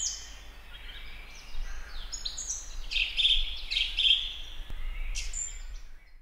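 Several birds chirping and singing, with short high calls that slide down in pitch, coming every second or so over a faint steady outdoor hiss.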